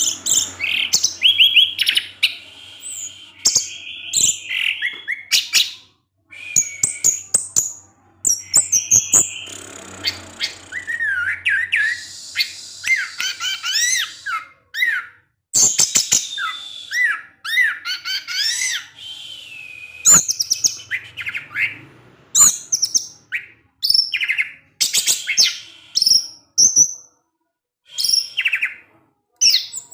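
Orange-headed thrush (anis merah) singing a fast, varied song of short chirps, trills and whistled notes, in phrases broken by brief pauses.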